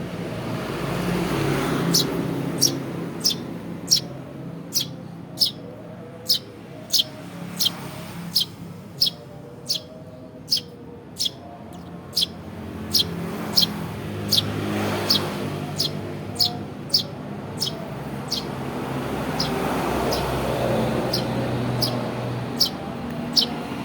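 Young Eurasian tree sparrow cheeping over and over, short high chirps about three every two seconds, over a steady low hum of road traffic.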